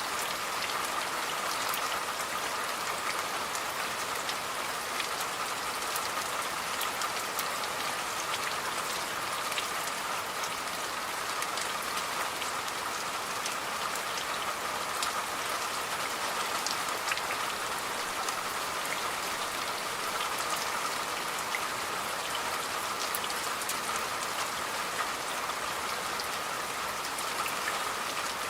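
Steady rain falling, with many individual drops ticking sharply over the even hiss.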